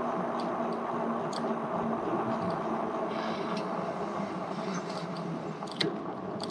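Lectric e-bike riding along a road: steady rolling rumble with a faint constant hum, and a few light clicks and rattles from the bike.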